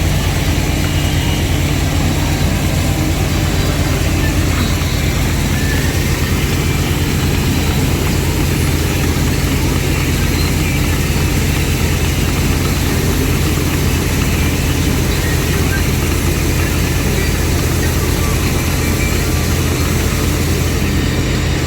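Heavy engine of a wheat-harvesting machine running steadily at a constant speed, with a deep, even hum.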